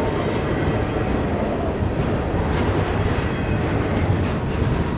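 Double-stack intermodal freight train of container-laden well cars rolling past: a steady rumble and rattle of steel wheels on the rails, with a few faint clicks from the wheels crossing rail joints.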